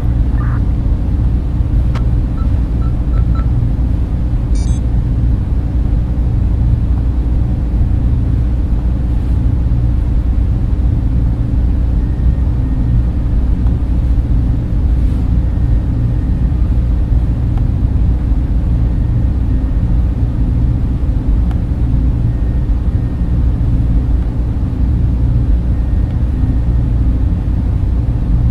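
Server-room cooling fans running: a steady, dense whir with a deep, even rumble carrying most of the sound.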